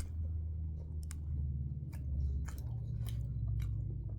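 A person chewing a mouthful of Reese's peanut butter cup chocolate close to the microphone, with scattered small mouth clicks.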